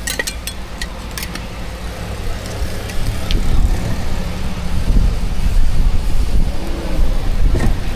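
A low engine rumble with a steady hum, growing louder about three seconds in, with a few sharp clicks near the start.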